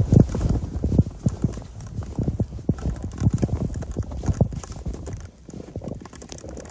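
Footsteps in fresh snow: a quick, uneven series of thuds that grows fainter after the middle.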